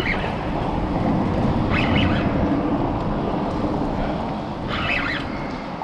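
Wind buffeting the microphone on an open boat: a steady rumble, with three short hissy bursts about two seconds apart.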